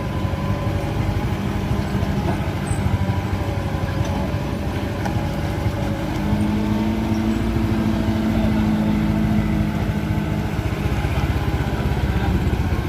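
Vehicle engine running steadily under load, its pitch rising a little and growing louder for a few seconds around the middle before easing back.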